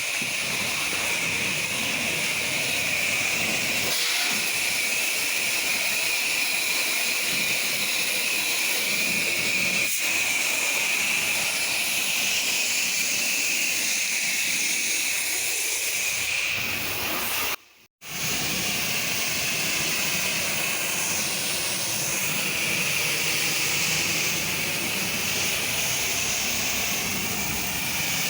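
Pressure washer spraying a steady rinse of water, a constant hiss with a strong high band. It drops out for a split second about two-thirds of the way through, then carries on.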